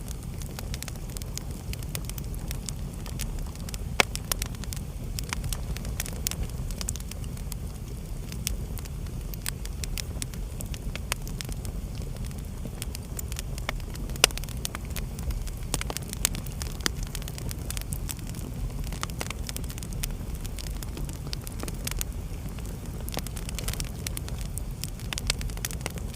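Wood fire in a fireplace crackling steadily, with scattered small snaps over a low steady rumble and a couple of louder pops, about four seconds in and near the middle.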